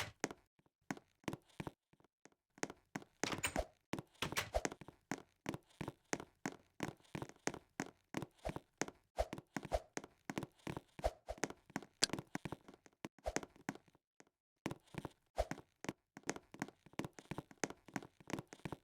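Close-up eating sounds: an irregular run of short crunches, clicks and smacks from chewing and biting, with a few brief pauses.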